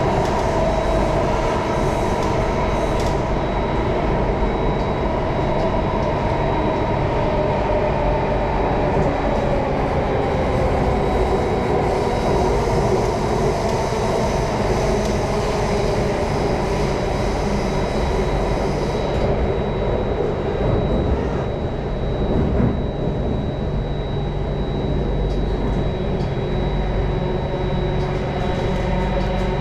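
Singapore MRT Circle Line train running underground, heard from inside the carriage: a steady rumble with a constant motor whine. A higher hiss drops away about two-thirds of the way through.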